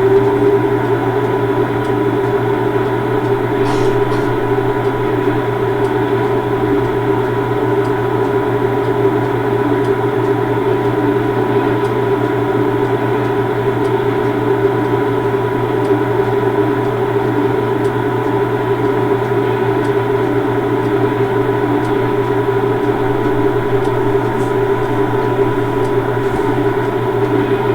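Steady machinery hum of a standing train, several fixed tones layered together with no change in pitch or level, and a couple of faint ticks.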